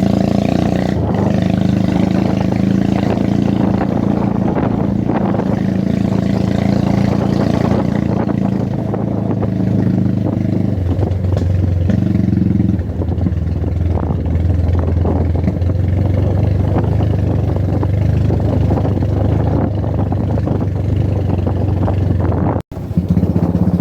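Motorcycle engine running steadily under way, its note dropping lower about eleven seconds in after a brief rise, then holding. The sound cuts out for an instant near the end.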